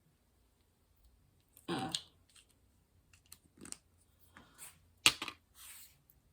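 Small clicks and rustles of hands handling diamond-painting supplies and small plastic drill containers, with a sharp click about five seconds in.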